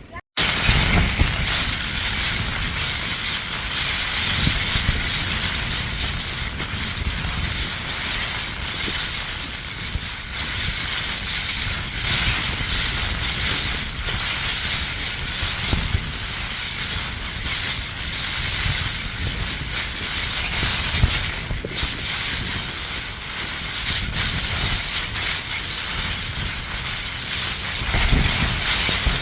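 Strong gusting wind buffeting the microphone, a rumbling buffet under a steady hiss.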